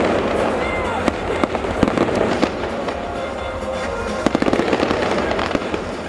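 Aerial fireworks going off in quick succession: a dense run of crackles and pops, with a tight cluster of sharp reports about four seconds in.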